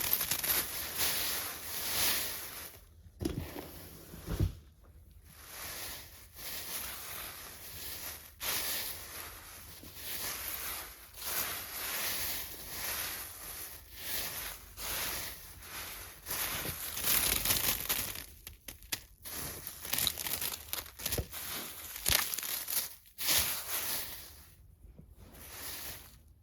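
Irregular dry crinkling and crackling in spells, with a few short pauses, like crunchy debris or material being handled while no motor runs.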